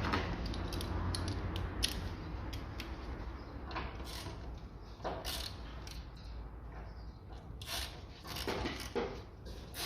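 Ratchet wrench clicking and metal tools clinking as the 10 mm bolts of a car's battery tray are undone: irregular short clicks and knocks, thicker in the second half.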